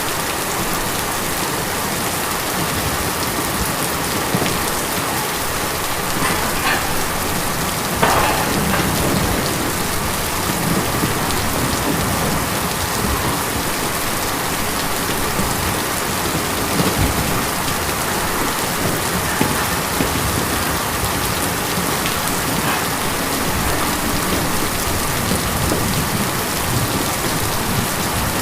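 Steady rain on a tin roof: a dense, even patter, with a few louder drops around six and eight seconds in.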